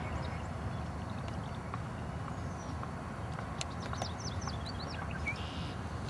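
A quick run of short, high bird chirps a few seconds in, over a steady low rumble of outdoor background noise.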